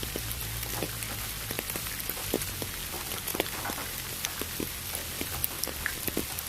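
Steady rain with many scattered, distinct drop hits, over an even hiss of pink noise and a low steady rumble.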